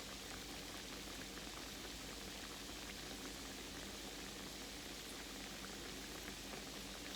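Croquettes frying in a pan of oil over moderate heat: a steady, gentle sizzle with many small pops and crackles.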